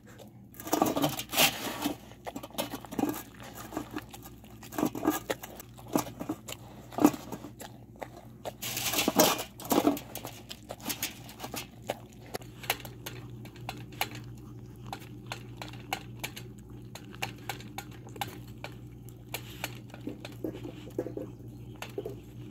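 Dogs eating a moist meal from stainless-steel bowls: wet chewing and licking, with the food and teeth clicking against the metal. The clicks come in louder clusters for the first ten seconds or so, then as a run of quicker, lighter ticks.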